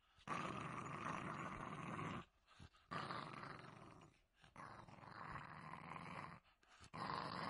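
A dog growling: four long, rough growls of about one and a half to two seconds each, one after another with short breaks between.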